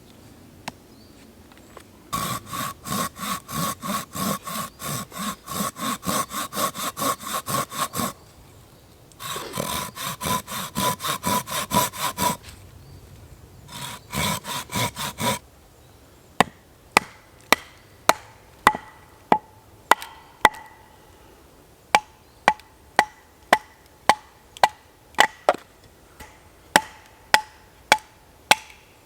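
Hand saw cutting through a log in three bouts of quick, even strokes, about three a second, with short pauses between. It then gives way to a run of sharp knocks of a tool striking the wood, about two a second, as the log is worked into a bushcraft hammer.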